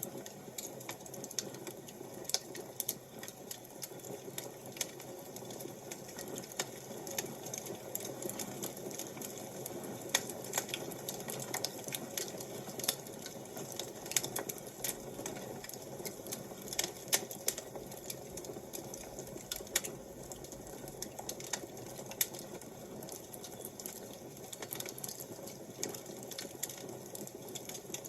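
Fire crackling: irregular sharp snaps and pops, a few a second, over a steady low background hush.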